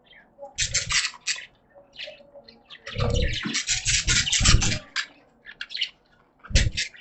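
Pet budgies chirping and chattering in irregular bursts, mixed with intermittent splashing water sounds.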